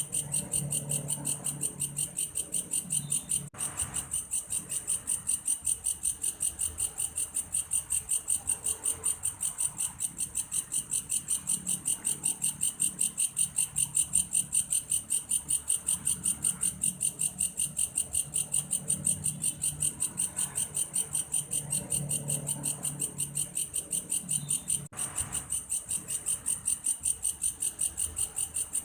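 Insect, which the uploader calls belalang kayu (a grasshopper whose song sounds like a cricket's), calling in a high-pitched, evenly pulsed chirp of about three beats a second. Two very short breaks come about 3 s in and near the end.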